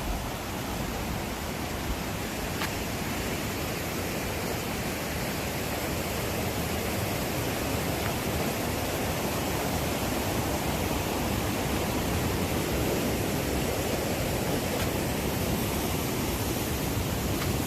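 Steady rushing noise that slowly grows louder, with one faint click about two and a half seconds in.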